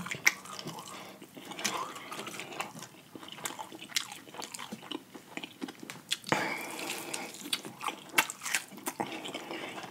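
Close-miked biting and chewing of a fried chicken drumstick, with irregular sharp mouth clicks and smacks.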